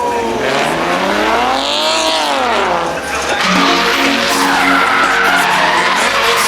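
A drift car's engine revving up and back down, then held high while the tyres squeal through a slide.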